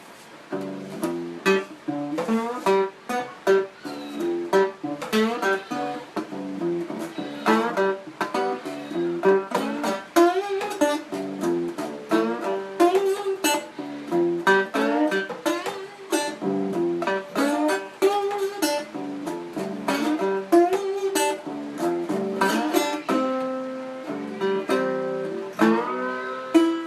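Instrumental music on a plucked string instrument like a guitar or ukulele: a quick, busy run of picked notes and short chords, with no bass or drums.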